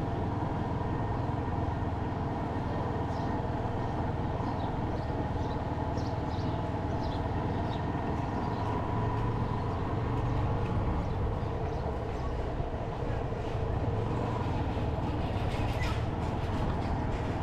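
Motorcycle running steadily while being ridden along a street.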